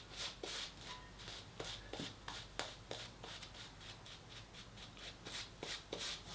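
Shaving brush whisking shaving soap into a lather in the palm of a hand: a quick, even run of wet swishing strokes, about three a second.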